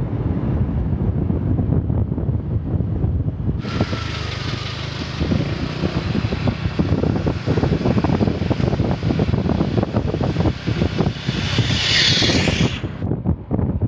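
Vehicle travelling fast on the road, with heavy wind buffeting on the microphone. A steady rushing hiss comes in about four seconds in and drops away near the end.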